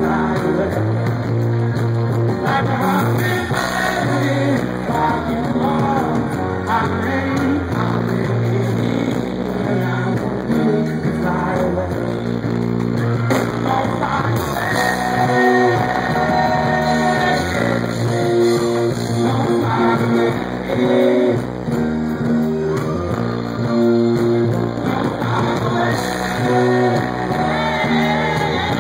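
Live rock band music with electric guitar over a steady bass line, and a singing voice at times.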